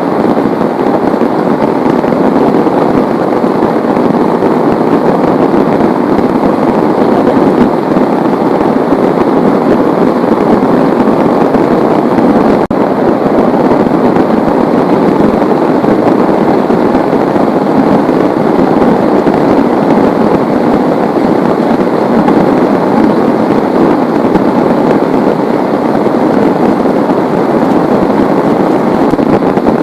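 Heavy rain pouring down in a dense, steady, loud hiss, with a momentary break about thirteen seconds in.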